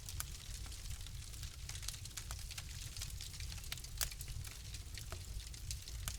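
Wood fire crackling: frequent irregular pops and snaps over a low steady rumble, with one louder crack about four seconds in.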